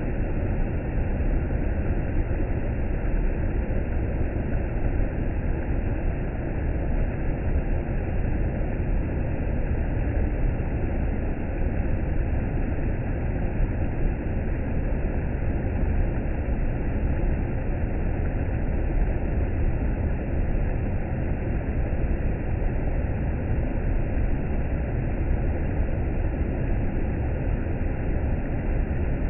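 Waterfall rushing: a steady, unbroken roar of falling water, heaviest in the low rumble.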